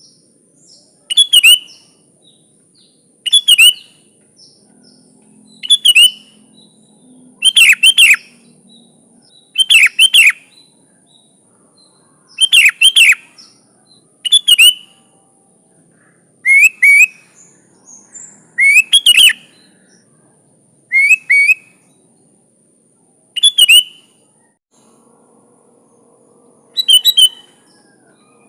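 Sooty-headed bulbul singing short, loud, bubbly whistled phrases about every two seconds, a dozen or so in all, over a faint steady high hiss.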